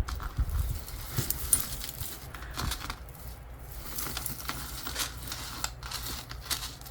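Metal costume jewelry clinking and jangling as it is handled: chains and small metal pieces tapping together in a run of light, irregular clicks.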